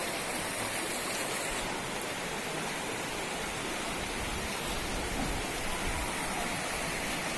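Steady rush of flowing water, an even hiss with no changes.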